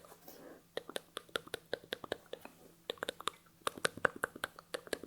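ASMR mouth sounds close to the microphone: a rapid, irregular run of wet clicks and smacks, with a short breathy whisper early on.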